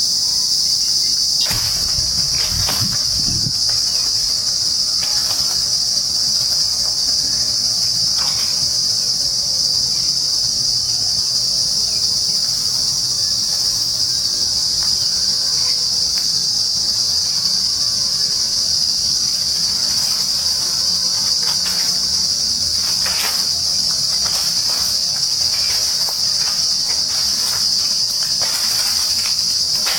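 Daytime insect chorus in trees: a steady, unbroken high-pitched drone. A few faint clicks sound here and there.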